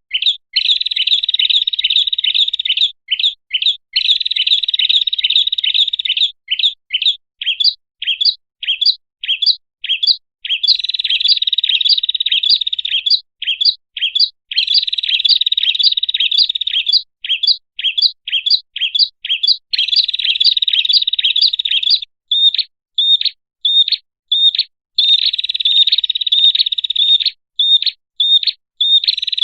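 Prinia (prenjak) song played as a bird-lure recording: high, rapid chirping trills alternating with runs of separate sharp chirps, several a second.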